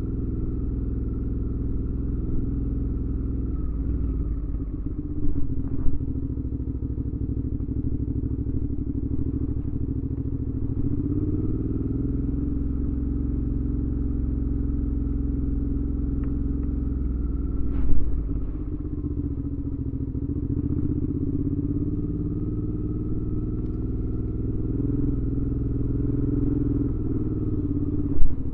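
2019 Suzuki V-Strom 650's 645 cc V-twin running under way through a Delkevic aftermarket exhaust, its pitch rising and falling as the revs change. Short loud knocks come about five seconds in, again near the middle and at the very end.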